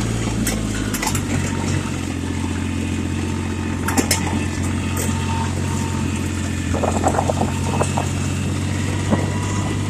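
Yanmar tractor's diesel engine running steadily under way, its pitch stepping slightly about a second in, with a few clicks and rattles.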